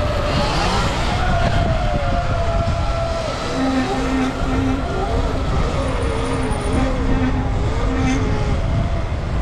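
Sur-Ron electric dirt bike motors whining, their pitch rising and falling, over a heavy low rumble of wind on the microphone. A short tone beeps on and off repeatedly through the middle.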